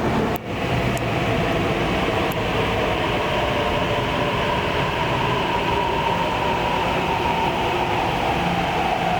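MTR Tuen Ma Line metro train running through the station with a steady rail rumble, its motor whine falling in pitch in the second half.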